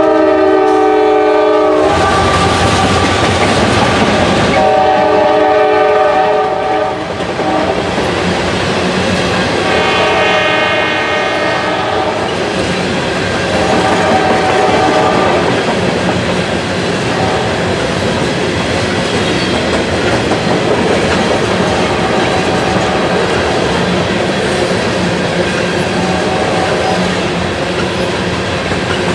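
A train passing close by, its wheels clattering steadily over the rails, while its air horn sounds a chord in several blasts: one at the start, another about five seconds in, a third about ten seconds in, and weaker short ones later.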